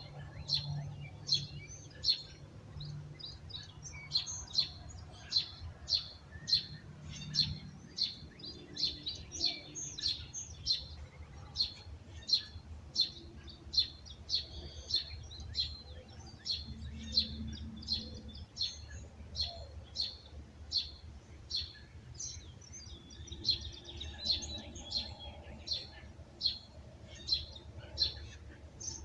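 Birds chirping: a steady run of short, high chirps, about two a second, over a faint low rumble.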